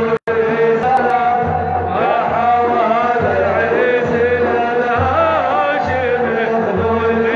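Male maddah chanting an Arabic religious praise song (madih) to a wavering, ornamented Middle Eastern melody, with a low beat underneath about once a second. The sound cuts out for a moment just after the start.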